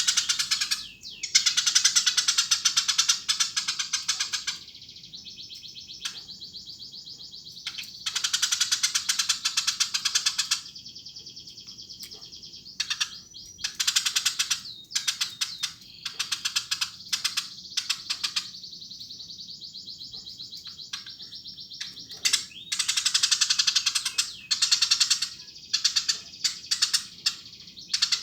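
Eurasian tree sparrow chirping persistently, in loud bouts of rapid, dense chirps lasting a few seconds each, with quieter runs of steady chirps between them.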